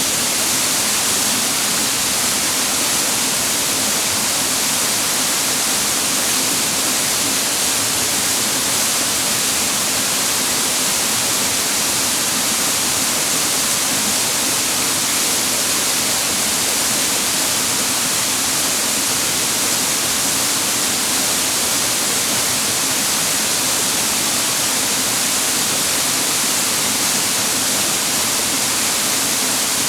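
Clear mountain stream water rushing and splashing over rocks, a steady rush with much hiss and no breaks.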